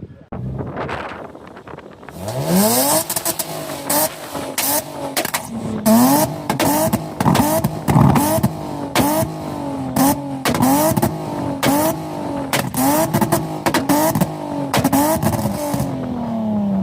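A car engine revved hard over and over, rising and dropping in pitch about every second, with sharp cracks and pops from the exhaust throughout. It cuts off near the end.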